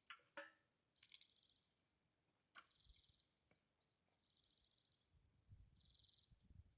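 Near silence with a faint, high, buzzy trilling call repeated four times, about every second and a half, each lasting about half a second. A few soft clicks come in the first seconds and a low rumble near the end.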